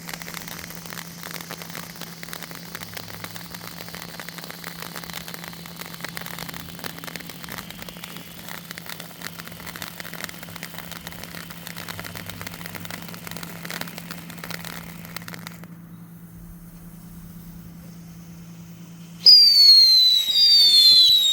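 Astra Unicorn firework fountain spraying with a dense crackle for about fifteen seconds, then dying down to a faint hiss. Near the end a loud shrill whistle sets in, falling in pitch twice.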